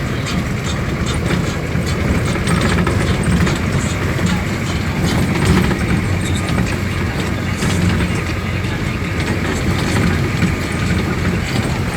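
Steady vehicle rumble, unbroken, with most of its weight low down.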